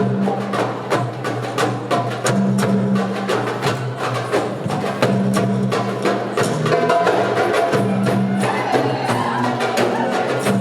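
Ensemble of darbukas and other hand drums playing a fast, dense rhythm of sharp strikes, over a backing track with a sustained low bass note that steps to a new pitch every second or two.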